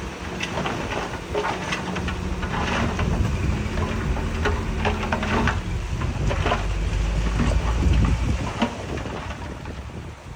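Diesel engine of heavy earthmoving machinery running under load, with loose stone rattling and clattering throughout. It builds over the first few seconds and eases off near the end.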